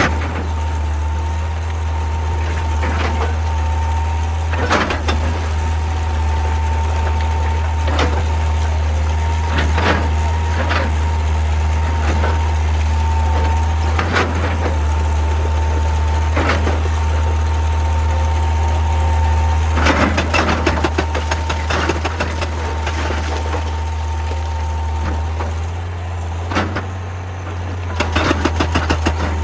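Excavator's diesel engine running steadily under a constant whine, with rocks knocking against the bucket every second or two and two spells of rapid clattering, the second near the end.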